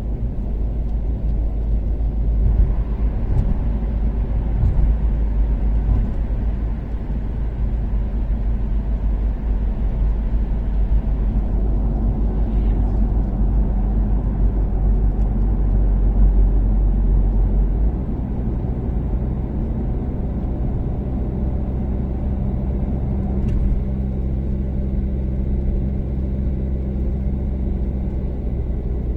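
Toyota Caldina ST246W's turbocharged 3S-GTE four-cylinder engine and tyre rumble while cruising on an expressway, a steady, deep drone. About eighteen seconds in, the engine note settles into a steadier hum and the rumble eases slightly.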